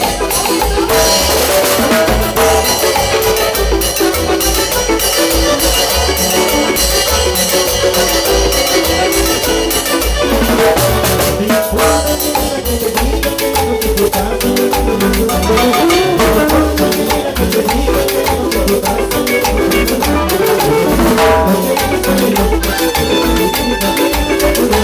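Live cumbia band playing a dance number: a steady beat on drums and percussion over a pulsing bass line.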